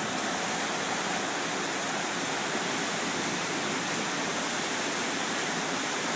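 Hurricane rain and wind: a steady, even rush with no breaks.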